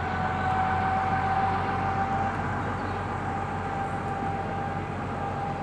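A narrow-gauge train running on the Children's Railway, with a steady high-pitched whine over the running noise.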